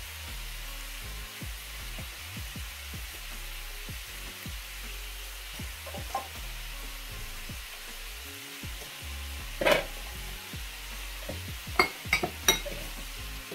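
Chicken pieces and chopped onions sizzling steadily as they fry in a pan, with a sharp clink about ten seconds in and a few quick clinks of utensils or dishes near the end.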